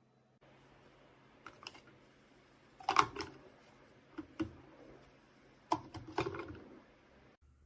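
A series of sharp clicks and knocks, mostly in close pairs, from hard objects being handled. The loudest pair comes about three seconds in.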